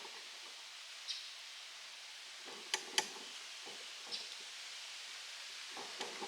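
A few sharp metallic clicks and taps from hand tools working on an electric motor's wiring and fittings, two of them close together about halfway through, over a steady low hiss.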